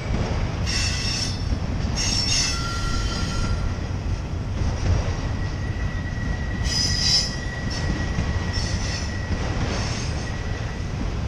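Empty autorack freight cars rolling slowly past with a steady low rumble, their steel wheels squealing on the rail in several short high bursts and a thin steady squeal held through most of the time.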